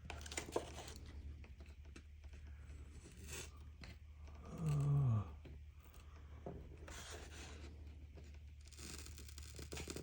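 Razor blade scraping old adhesive and the crystallized residue under it off LCD glass, in several short scratchy strokes. A short low hum of a voice falls in pitch about four and a half seconds in.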